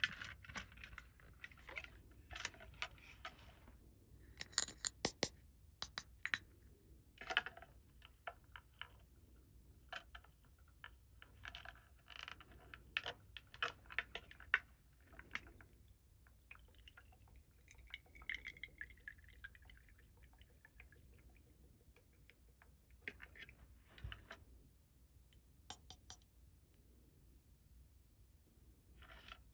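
Small plastic toy pieces being handled and set down: scattered light clicks and taps, with a brief squeaky scrape partway through.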